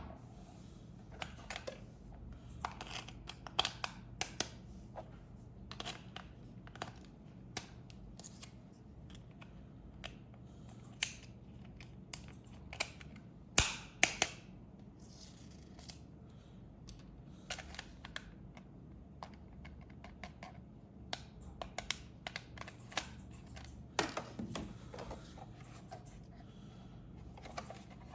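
Irregular clicks, taps and short rustles of hands handling an RC toy and its packaging, with a few louder knocks about halfway through and again near the end.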